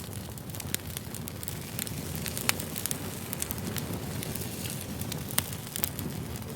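Campfire burning and crackling: a steady low rumble of flames under many scattered sharp pops and snaps, a few of them louder.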